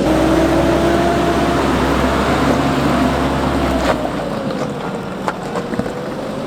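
Nissan Navara NP300 4x4's engine running with a steady drone under light load. About four seconds in, the sound drops in level and the low rumble falls away, leaving a fainter drone and a few sharp clicks.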